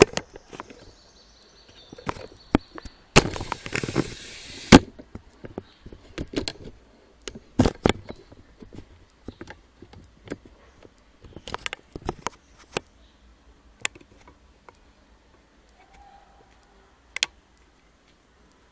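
Close handling of craft materials: scattered sharp clicks and knocks, with a dense rustling stretch about three seconds in that lasts over a second and ends in a loud knock.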